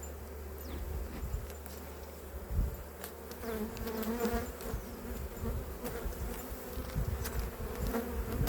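Honey bees buzzing around an opened hive. About halfway through, one bee passes close, its buzz louder and rising and falling in pitch.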